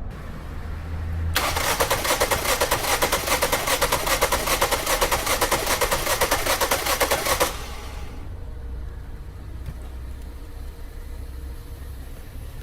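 2017 Ford Escape engine cranking on its starter motor for about six seconds without firing, its ignition coils disconnected and the number 2 spark plug removed, then stopping abruptly. The cranking is a fast, even chatter.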